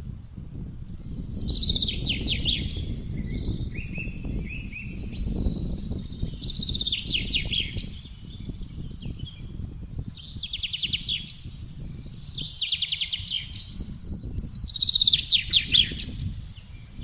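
A songbird sings short, rapid, trilled phrases, about six of them, spaced a couple of seconds apart, over a constant low rumble of gusting wind.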